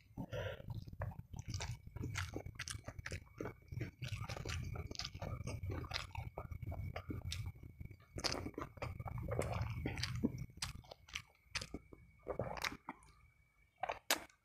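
Close-up chewing of a mouthful of fried chicken and rice: a dense run of wet mouth clicks and small crunches, thinning out near the end with a few last bites.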